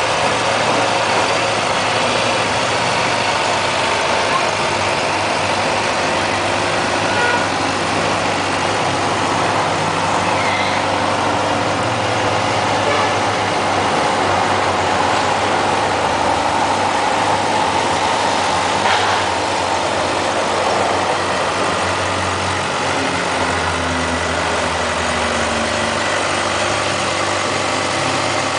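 2011 Suzuki GSX-R750's inline-four engine idling steadily.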